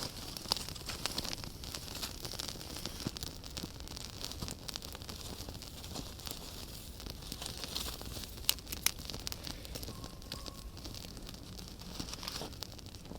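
Campfire crackling, with a steady run of small pops and two louder snaps close together a little past the middle.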